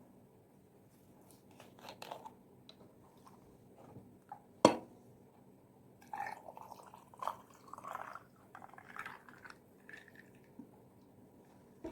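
Eating fried chicken wings: a few light clicks and one sharp click a little before halfway, then wet, irregular chewing from about halfway on.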